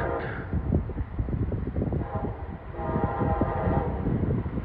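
Train horn sounding its chord: the tail of one blast right at the start, a short blast about two seconds in, then a longer blast just after, over a steady low rumble.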